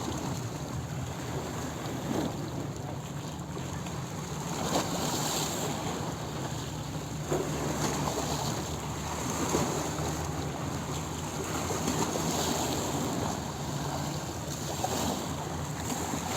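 Sea waves breaking and washing on a beach, rising and falling in gentle swells every few seconds over a steady rush of surf.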